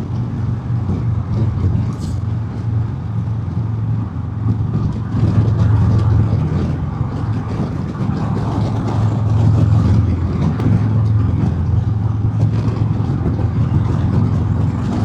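Harley-Davidson Road King's Milwaukee-Eight V-twin engine running steadily at highway speed, with heavy wind and road noise on a helmet mic. The engine swells slightly about five seconds in and again around nine to ten seconds.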